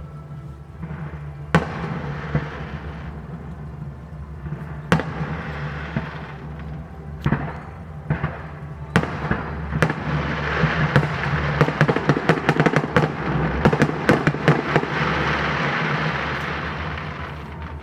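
Fireworks going off: single sharp bangs a few seconds apart, then a dense barrage of bangs over crackling that fades out near the end.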